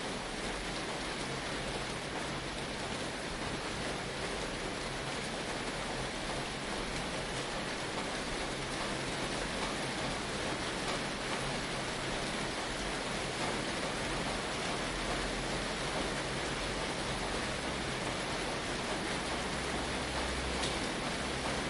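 Steady rain pattering on a tin roof.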